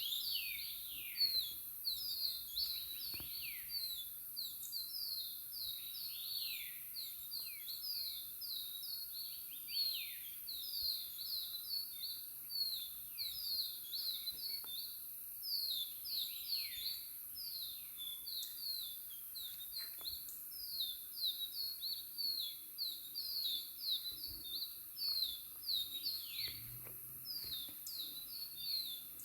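Birdsong: a fast, unbroken run of short, high, downward-slurred chirps, with now and then a longer falling whistle, over a steady high hiss.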